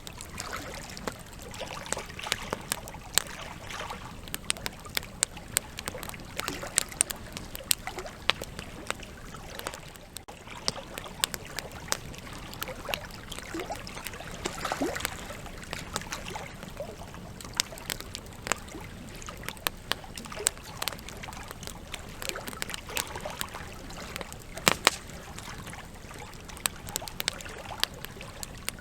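Campfire logs burning, with irregular sharp crackles and pops over a steady hiss; the loudest pop comes about 25 seconds in.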